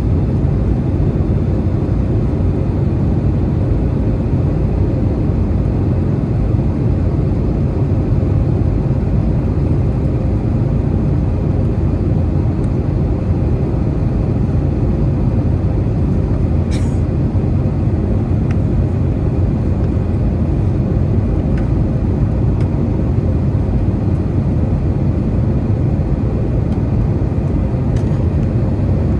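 Airbus A321 airliner in flight, heard inside the cabin: a steady, loud low roar of engines and rushing air with a faint steady hum above it. A brief click sounds about halfway through.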